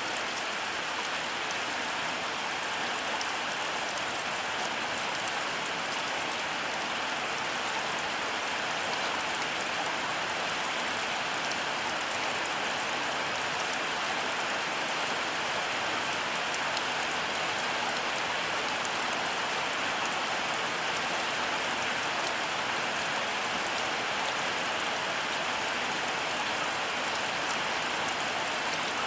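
Heavy rain falling steadily, a dense even hiss of drops with fine pattering on top, with no thunder.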